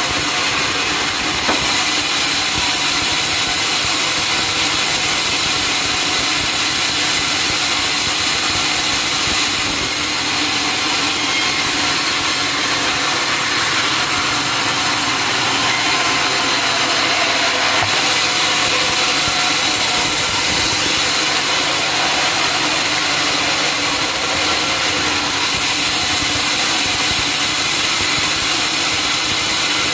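Sawmill saw and its engine running steadily while sawing a teak log: a constant loud hiss over a low engine drone, without pauses.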